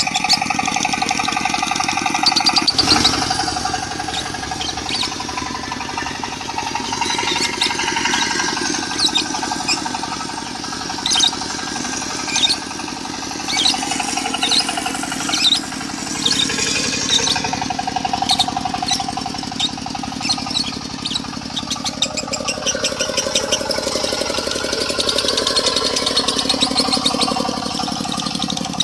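Lovebird chattering in a long, unbroken 'konslet' run of high, sharp chirps over a diesel engine running steadily.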